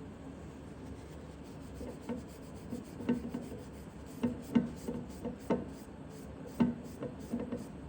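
A cloth wiping and scrubbing a metal outboard propeller shaft during cleaning. It makes a run of irregular short rubbing strokes and light knocks that starts about two seconds in.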